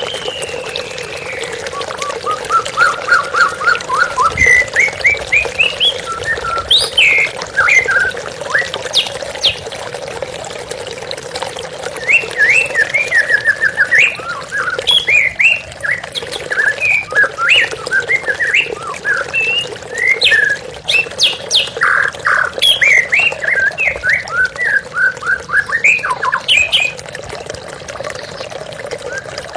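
White-rumped shama singing long, varied runs of quick whistled and harsh notes, with a short pause about a third of the way through. Under it runs steady flowing water.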